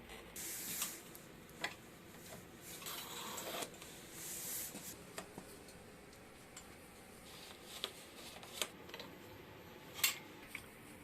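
Light workshop handling: scattered sharp clicks and taps, with three brief hissing rubs in the first half.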